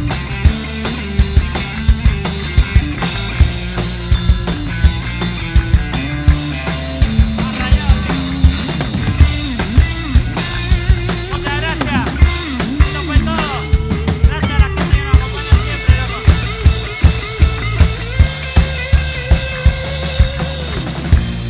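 Rock band playing an instrumental passage: a drum kit keeping a steady beat under a lead line that bends and wavers in pitch.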